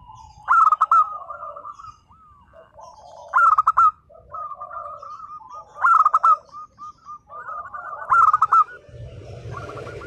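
Zebra dove (local perkutut) cooing. Four phrases come about two and a half seconds apart, each a loud burst of notes followed by a run of short, softer coos. A hiss of noise comes in near the end.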